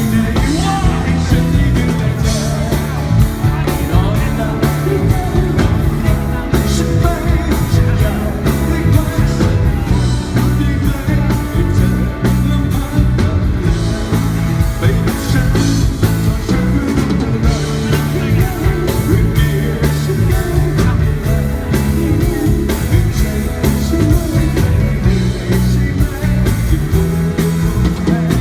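Live rock music: a band playing with a singer, drums keeping a steady beat.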